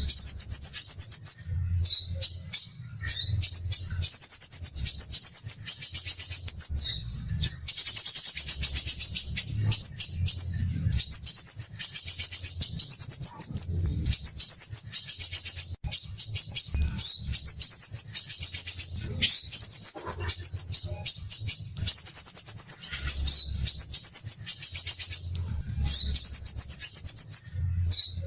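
Crimson sunbird singing: dense, rapid, harsh high-pitched trills in bursts of one to two seconds with short pauses between them, repeated over and over.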